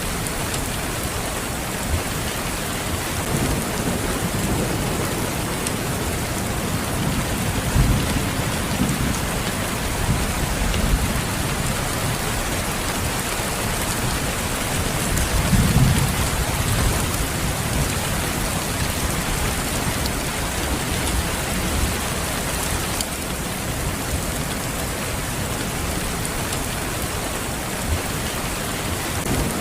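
Steady rain falling, with low rumbles of thunder rolling through, the strongest about halfway through.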